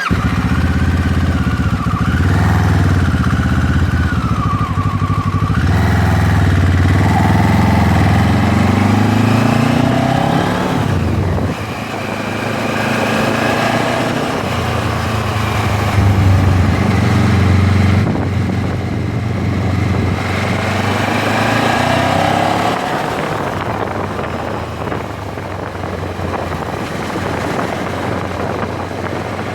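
MZ 1000 motorcycle's parallel-twin engine under way, its pitch climbing through the revs and dropping sharply at gear changes about six and eleven seconds in, then running more evenly.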